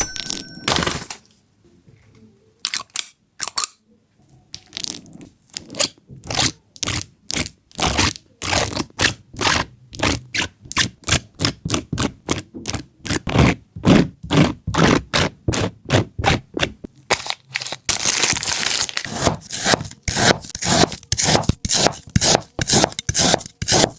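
A dog chewing crunchy food: repeated sharp crunches, a few at first, then about three a second, and thicker, faster crunching in the last seconds.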